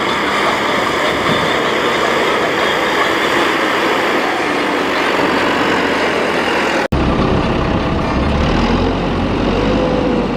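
Tractor engines running loud and steady. The sound cuts off suddenly about seven seconds in and is replaced by a deeper, heavier engine sound.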